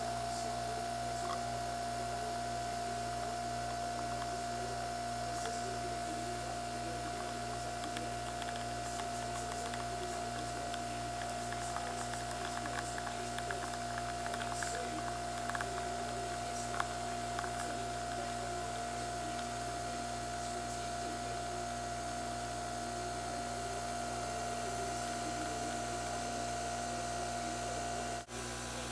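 Steady mechanical hum with a constant mid-pitched whine, which stops abruptly near the end.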